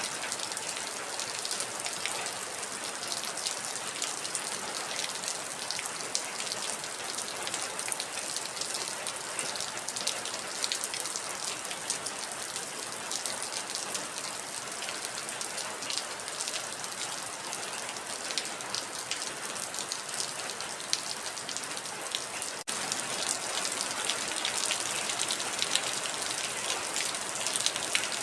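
Heavy rain falling steadily, a dense patter of drops. About three-quarters of the way through there is a momentary break, after which the rain is slightly louder.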